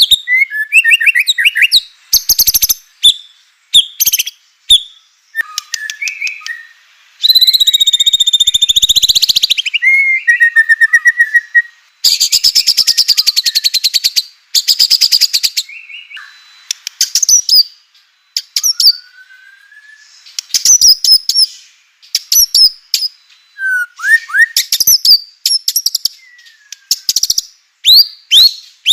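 White-rumped shama (murai batu) singing a loud, varied song of sharp whistled notes and short phrases, broken by two long, very fast rattling trills (kretekan), one about seven seconds in and another about twelve seconds in.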